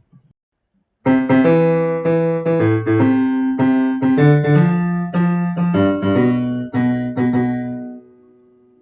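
Piano music, a short phrase of struck chords and notes that starts about a second in and dies away near the end.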